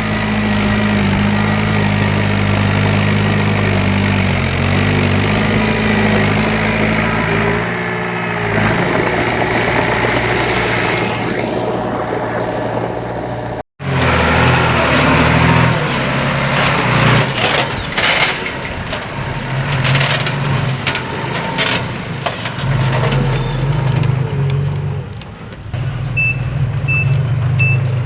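Diesel engines of heavy earthmoving machinery running, with sharp metal clanks and rattles after a cut about halfway through. Near the end a reversing alarm beeps about twice a second.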